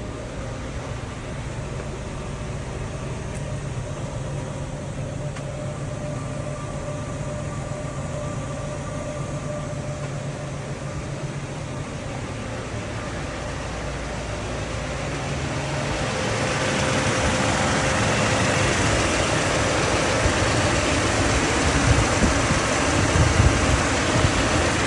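Mercedes-Benz 500 SEC's 5.0-litre V8 idling shortly after a cold start. About two-thirds of the way through the sound grows louder and harsher.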